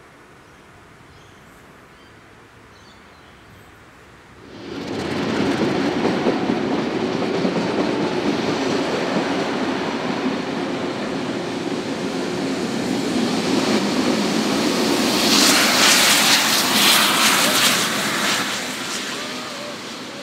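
A train passing close below: a steady rumble of wheels on rail that starts suddenly about four seconds in, with a loud hissing rush for a few seconds past the middle, then fading. Before it, only faint background.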